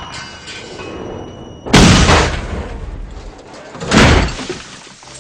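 Car crash sound effects: two heavy booming impacts about two seconds apart, each dying away over about a second.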